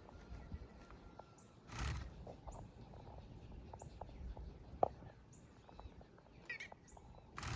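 Birds chirping faintly: a short high chirp repeated about once a second, with a brief run of calls about six and a half seconds in. A short rush of noise comes about two seconds in and again near the end.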